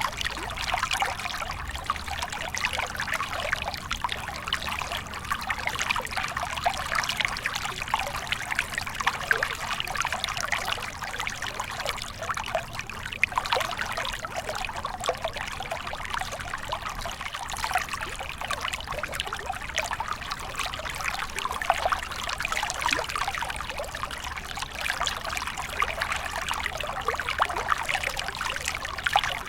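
Small stream of water trickling and babbling over stones, a steady splashing flow with fine bright droplet sounds.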